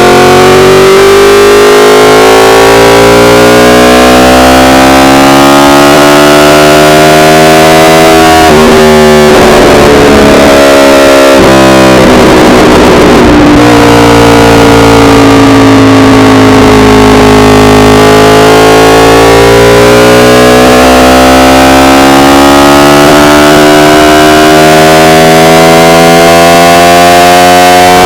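Yamaha R1's inline-four engine pulling under throttle, its pitch climbing slowly; about a third of the way in the pitch breaks off into a few seconds of rough noise, then the engine note sags and climbs steadily again. The recording is heavily overdriven and distorted.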